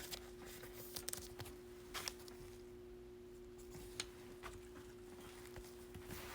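Quiet handling of trading cards: a few faint clicks and light taps as cards are shuffled and turned over, over a steady faint hum.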